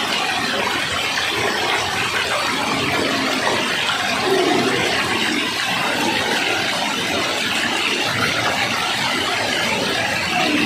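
Rushing water, a steady even noise that swells slightly about four seconds in.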